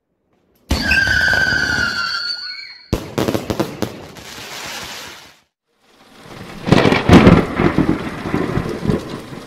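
Fireworks cake, a 100-shot 20 mm Pyrostar Thunderstorm, going off. Less than a second in comes a burst with a high whistling tone, which cuts off abruptly. Dense crackling follows, then after a short gap a rapid run of loud shots and crackles.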